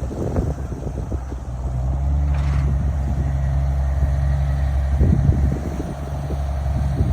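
A vehicle engine running steadily, a low hum that grows stronger about two seconds in, with scattered rattles and knocks over it.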